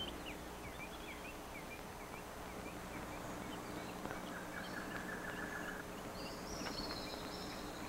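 Faint outdoor bird calls: many short chirps over the first few seconds, a rapid trill about halfway through, and a higher call near the end.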